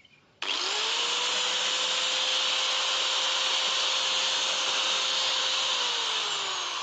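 Angle grinder with its gearbox freshly regreased, switched on and run free with no load. It starts suddenly with a quick rising whine, runs steadily with the gear noise clearly reduced, and begins to wind down near the end.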